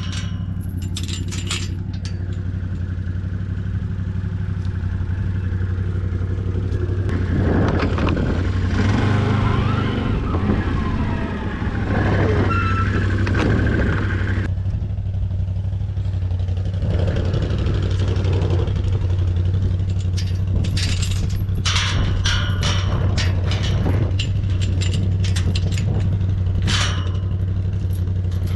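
Can-Am ATV engine running steadily as the machine is ridden, with a low drone and its pitch wavering for a few seconds in the middle. Scattered clattering and rattling come and go in the middle and again near the end.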